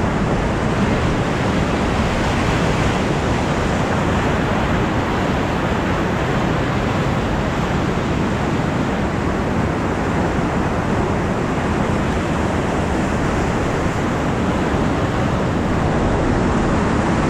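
Whitewater rapids rushing steadily, a loud unbroken roar of churning river water close to the microphone.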